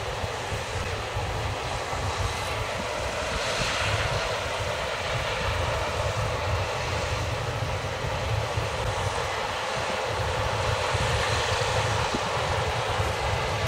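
Case combine harvester running steadily under load while harvesting barley: a continuous engine and machinery drone with a deep rumble.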